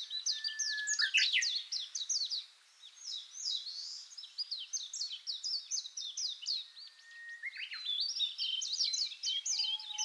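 Birds chirping: many short, quick, downward-sweeping chirps overlapping one another, with a brief lull about three seconds in.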